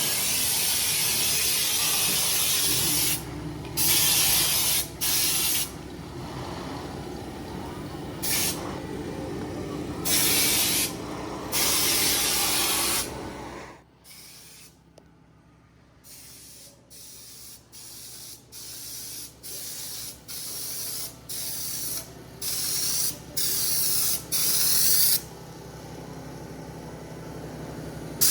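Air-fed spray gun spraying bed liner coating: loud hissing bursts that start and stop sharply as the trigger is pulled and released. The first half has long passes over a steady low hum; after a brief lull about halfway, short bursts come roughly once a second and grow louder toward the end.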